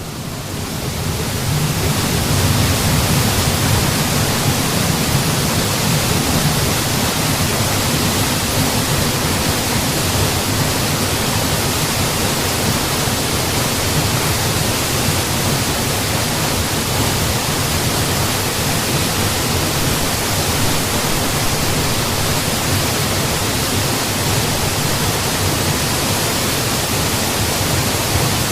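Mountain waterfall: a steady, even rush of falling water, fading in over the first couple of seconds and then holding constant.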